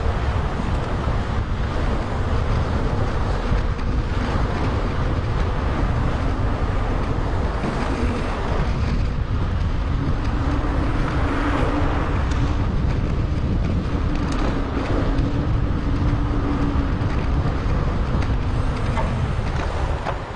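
Wind buffeting an action camera's microphone on a moving bicycle: a steady, loud rumble mixed with road noise. A faint steady hum joins in about halfway through, likely a passing vehicle.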